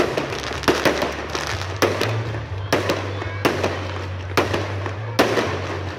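Aerial fireworks shells bursting overhead, a sharp bang roughly every second with crackling between, over music with a steady bass line.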